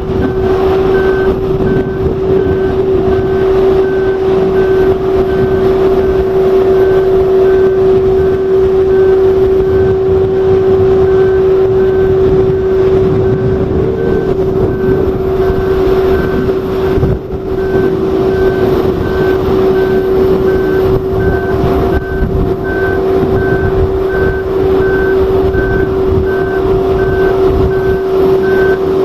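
Heavy machine running with a steady engine hum and a strong droning tone. Its warning alarm beeps over it at an even rate, roughly one and a half beeps a second. The sound drops out briefly about seventeen seconds in.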